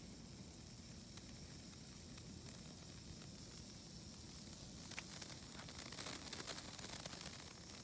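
Senko hanabi (Japanese hand-held sparkler) burning with a faint fizz, breaking into quick fine crackling of sparks about five seconds in.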